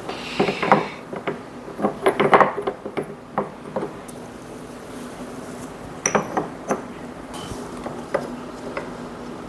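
Pieces of dragon stone knocking and clinking against each other and the glass tank as they are set in place. There is a quick cluster of sharp knocks in the first few seconds and a few more about six seconds in.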